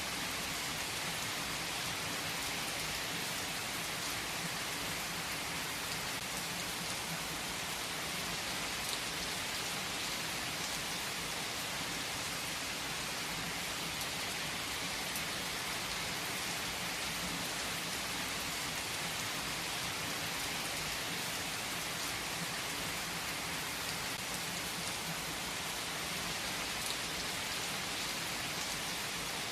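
Steady rain falling on a surface: an even, unbroken hiss, with a few faint sharp drop ticks scattered through it. No thunderclap is heard.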